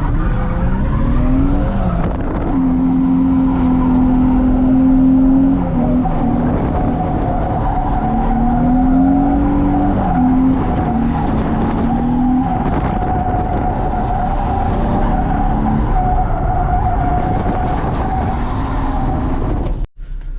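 A 2003 Nissan 350Z's VQ35DE V6 held at high revs with the tires squealing through donuts. The engine note climbs over the first two seconds, then dips and climbs again several times under a steady squeal. The sound breaks off briefly near the end.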